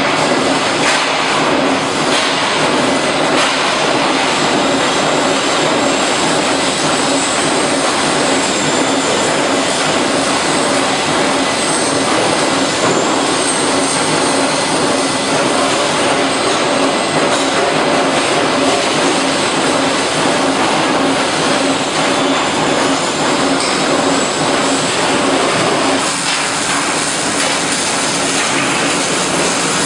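Steady, loud machinery noise, a dense even hiss and rumble with no clear rhythm, with a faint high whine that wavers in pitch; the noise thins a little in the lower range about 26 seconds in.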